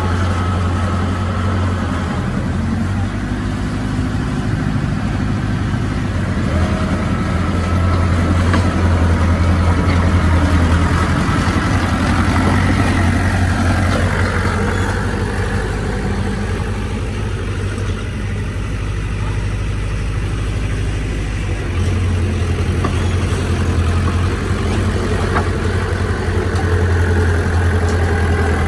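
Heavy diesel earthmoving machinery running steadily with a deep engine hum, swelling a little and rising then falling in pitch about halfway through.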